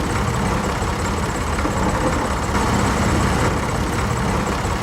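An engine running steadily at idle, a low even rumble.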